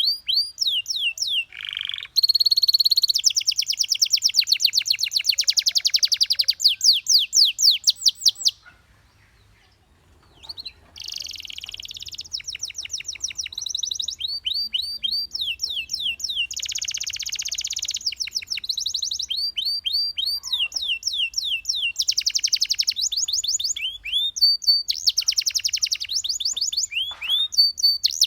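Canary singing: long, fast trills of repeated falling notes, with a pause of about two seconds near the middle.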